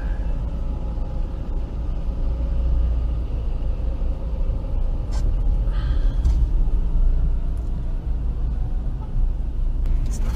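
Steady low rumble of a pickup's engine and cab heard from inside the cab, with a click about five seconds in and brief hisses about six seconds in and near the end.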